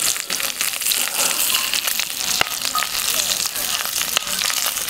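Pork slices and bacon sizzling in a hot cast-iron pan over a wood fire: a steady frying hiss dotted with many small pops of spitting fat.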